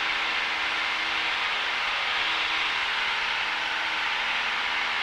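Cessna 172's piston engine and propeller running steadily at climb power just after takeoff, heard as an even drone from inside the cabin.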